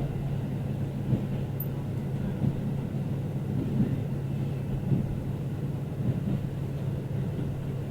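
Local diesel train running along the line: a steady low engine hum under the rumble of wheels on rail, with a few faint irregular knocks.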